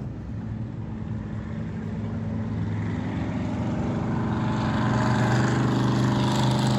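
Race car engines running at speed on a dirt track, growing steadily louder over the first five seconds and then holding.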